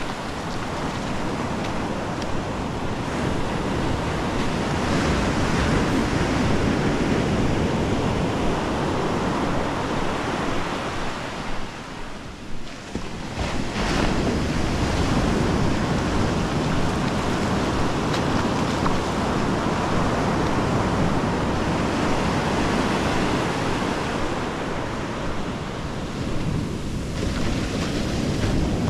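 Pacific surf breaking and washing up the beach in a steady rush, with a brief lull about halfway through before the next wave comes in.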